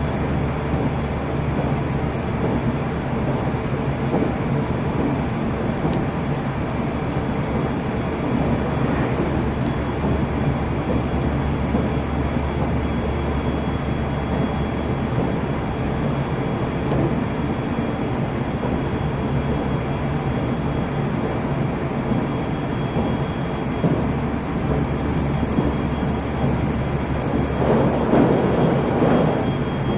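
Running noise of a JR Central 373 series electric multiple unit at speed: a steady rumble of wheels on rail with a few faint steady tones. A louder rush swells briefly near the end.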